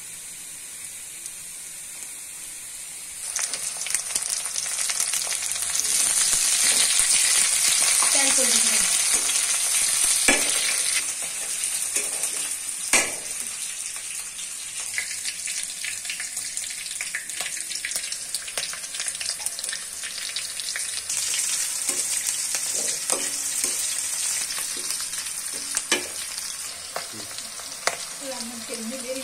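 Chopped onion sizzling in hot oil in a steel wok, stirred with a metal spatula that clicks and scrapes against the pan. The sizzle jumps louder about three seconds in, as chopped green chillies go into the oil, and eases again after about eleven seconds.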